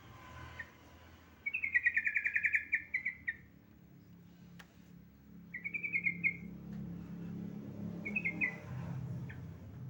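Yellow-vented bulbul (trucukan) giving a female's call to a male: a fast run of chattering notes, then a shorter run about halfway through and a brief burst near the end. A low steady hum sits underneath.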